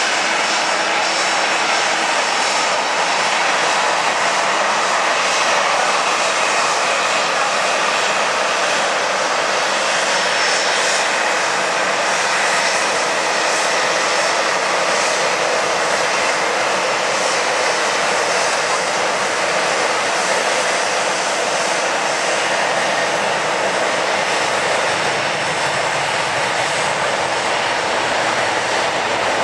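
Boeing 747-400 freighter's four jet engines running loud and steady at takeoff power, an even roar with a faint high whine.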